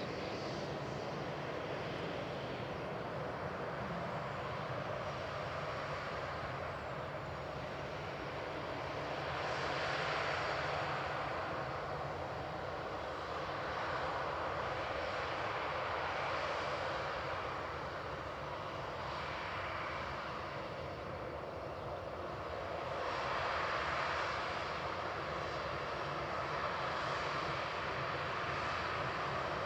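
Jet engines of an Airbus A320-211, its CFM56-5A1 turbofans, running with a steady roar that swells and eases a few times.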